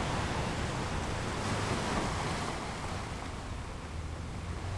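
Steady rushing hiss of sea-water ambience, the upper part of it dimming slightly about halfway through.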